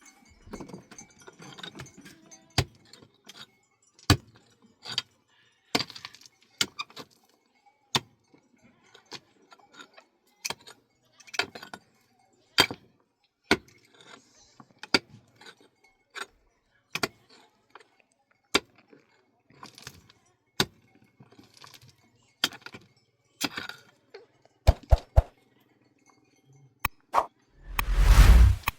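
A long run of sharp clinks and knocks at an irregular pace, roughly one or two a second, like hard objects being handled and struck together, with a louder burst of noise near the end.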